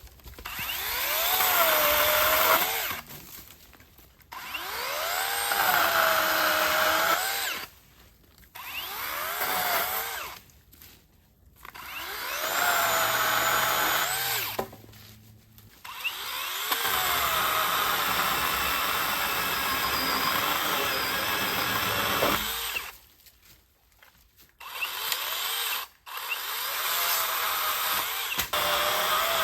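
Cordless battery saw cutting firewood: the electric motor whines up to speed and its pitch sags under load, in about seven separate runs with short pauses between cuts.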